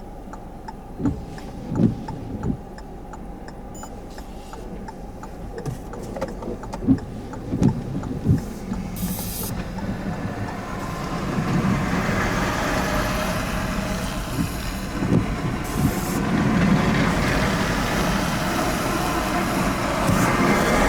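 A vehicle engine running with a steady low rumble, several sharp knocks in the first eight seconds or so, and a rough noise that swells about halfway through and stays loud.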